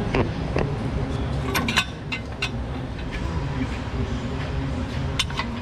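Metal tools and bolt hardware clinking: a handful of sharp, irregular clinks, two close together a couple of seconds in, over a steady low hum.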